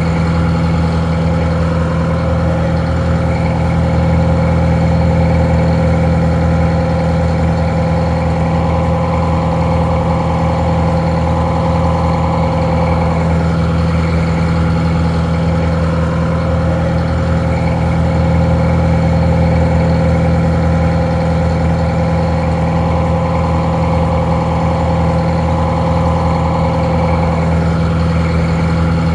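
Detroit Diesel 4-71 two-stroke diesel engine idling steadily, with a deep low drone and a steady higher whine over it. The sound is somewhat muffled.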